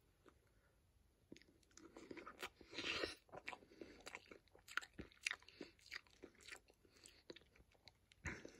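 Quiet chewing of a bite of hard-boiled egg with salsa: a string of short, irregular mouth clicks and smacks beginning a little over a second in.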